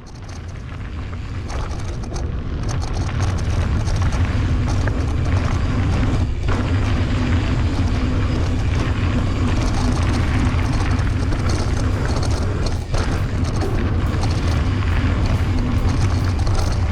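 Wind buffeting the microphone and the rolling rumble of a mountain bike riding fast downhill on dirt trail, fading in over the first couple of seconds and then running steady.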